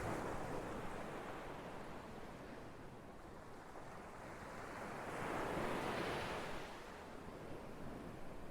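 Ocean waves breaking and washing on a shore, the surf swelling and easing in slow surges, the biggest about five to six seconds in.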